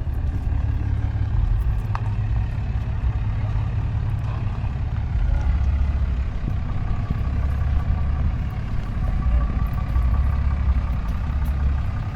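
Truck engine idling: a low, steady rumble.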